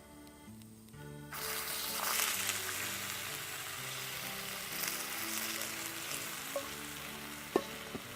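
Food sizzling in a hot pan over a wood fire, the hiss starting suddenly a little over a second in and easing off slowly, with a sharp click near the end.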